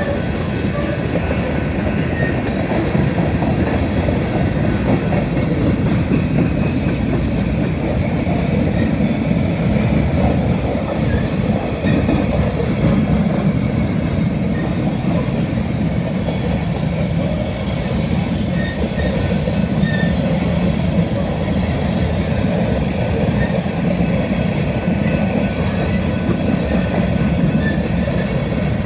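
Empty coal hopper cars of a freight train rolling steadily past: a continuous, loud rumble of steel wheels on the rails.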